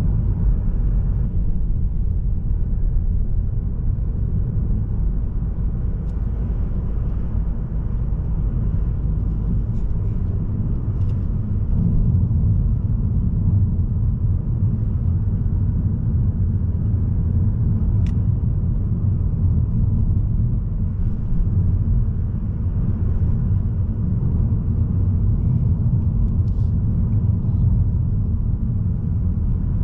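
Steady low rumble of a Mazda3 sedan with the 1.8-litre diesel on the move, engine and tyre noise heard from inside the car.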